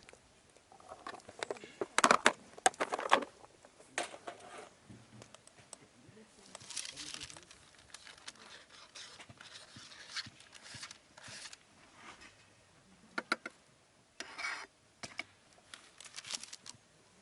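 Handling noises: crinkling and rustling with scattered light clicks and knocks, loudest about two to three seconds in.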